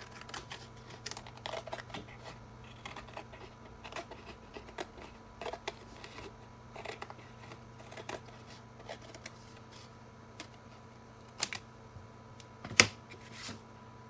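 Scattered light taps, clicks and rustles of small craft tools and materials being handled, with one sharp click near the end, over a steady electrical hum.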